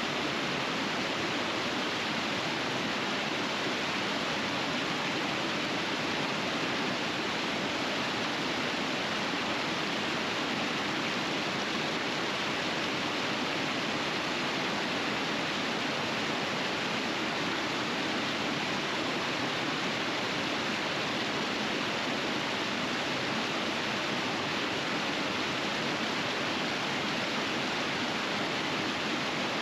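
River water rushing steadily over winter rapids, an even, unbroken roar of flowing water.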